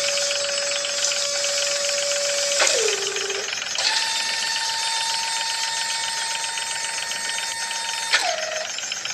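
Small electric motor whining with gear buzz, as in a homemade toy truck. Its pitch sags about two and a half seconds in, jumps higher about a second later, and sags again near the end, as the load on it changes.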